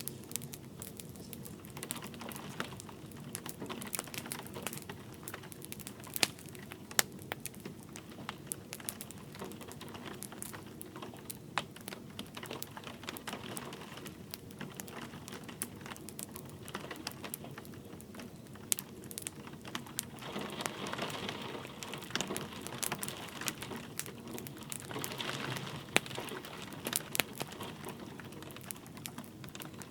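Wood fire crackling with frequent sharp pops and snaps over a steady hiss of light rain. The hiss swells twice in the last third.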